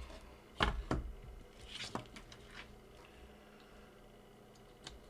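Handling noises as wiring is connected back to a car ECU on a workbench: two sharp knocks a little after half a second in, a short rustle and click around two seconds, then a few faint clicks.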